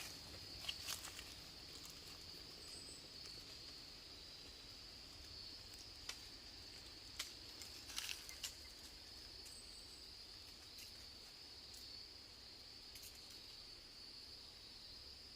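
Faint, steady high-pitched chorus of insects in the woods, with a few sharp snaps or clicks about a second in and again around the middle, such as twigs or steps underfoot.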